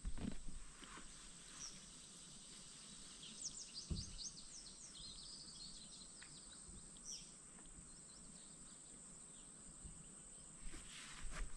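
Faint songbird chirping outdoors: a run of quick, high, falling chirps about three to six seconds in and one more a little later, over a steady high hiss. A single soft knock comes about four seconds in.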